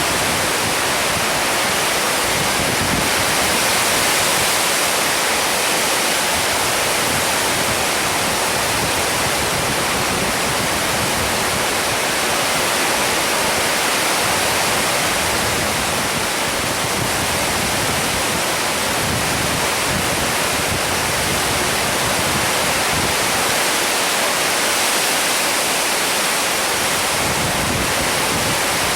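Rain pouring steadily during a storm, an even, unbroken rush.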